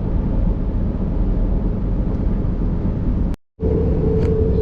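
Passenger train running along the line, a steady rumble of wheels on rails. About three and a half seconds in the sound cuts out completely for a moment, then comes back with a steady whine added over the rumble.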